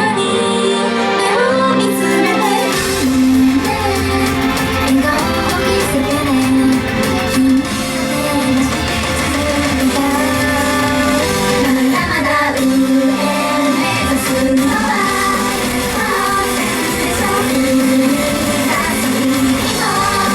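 Female idol group singing a J-pop song live over loud pop accompaniment.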